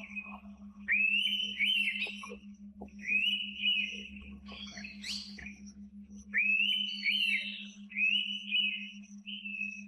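Indian pitta calling: loud whistled phrases, each about a second long and wavering in pitch, repeated about five times with short gaps, some in pairs. A steady low hum runs underneath.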